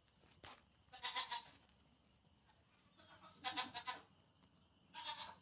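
An animal bleating: three wavering, quavering calls about two seconds apart, with a shorter call before them.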